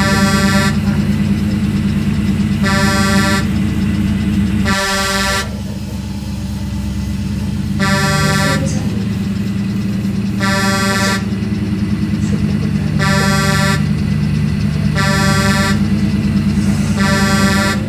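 Vehicle horn sounding in short blasts, about eight of them, each under a second and spaced roughly two to three seconds apart, over the steady low hum of a running engine.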